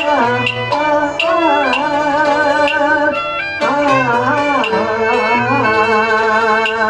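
Cantonese opera instrumental accompaniment between sung lines: wavering, ornamented melody lines from traditional Chinese instruments over sharp percussive strikes about twice a second.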